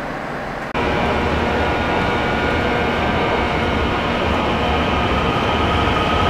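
Train running at a station: a steady rumble with several steady high whining tones over it, cutting in abruptly about a second in.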